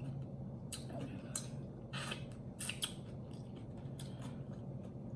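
Wet, sticky eating sounds from roast chicken being chewed and handled with sauce-covered bare hands close to the microphone: a handful of short, sharp smacks and crackles over a low steady hum.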